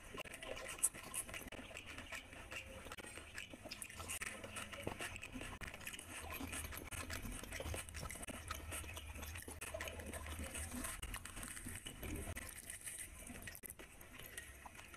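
Close-miked mouth sounds of a person eating: wet chewing and biting of soft fried luchi bread with curry, with irregular small crunches and one sharper crunch about a second in.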